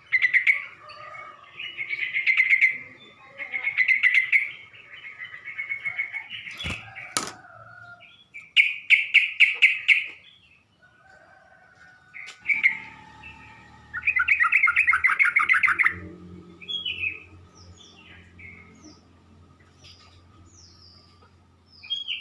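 Yellow-vented bulbul (trucuk) song: loud bubbly phrases of rapid notes repeated every couple of seconds, then a string of short falling chirps near the end. A low rumble comes in about halfway through.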